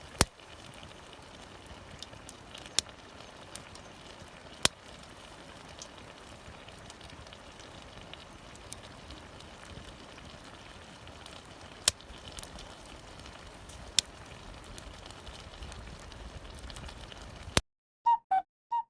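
Wood fire crackling: a steady hiss with a handful of sharp, widely spaced pops. Near the end it cuts to silence, broken by a few short tones.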